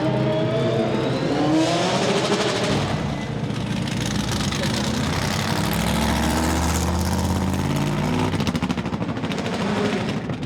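Chevrolet Corvette C5-R's 7.0-litre V8 race engine at full throttle, its pitch sweeping upward again and again as it accelerates through the gears. The sound drops away sharply right at the end.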